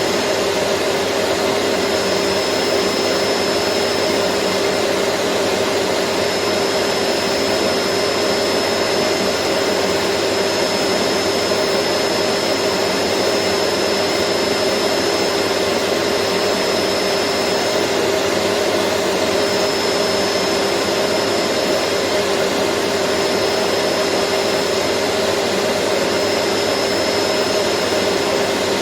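Vacuum cleaner running steadily: a constant rush of air with a hum in it and a faint high whine that drops out briefly twice.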